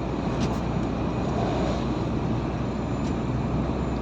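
Steady drone of a truck's engine and road noise, heard inside the cab, with a faint click about half a second in and another about three seconds in.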